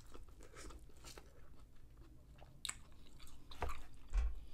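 Close-up biting and chewing of buttered corn on the cob, with crisp crunching clicks as the kernels are bitten off. A low thump sounds near the end.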